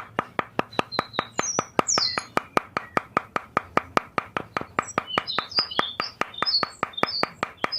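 An even, rapid clicking, about five clicks a second, with short high bird-like chirps over it.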